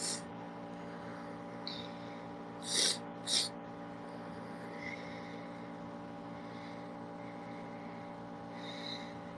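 Air conditioner running steadily close to a sensitive PC microphone, a constant loud hum with a few steady tones. About three seconds in, two short sharp puffs of breath stand out above it.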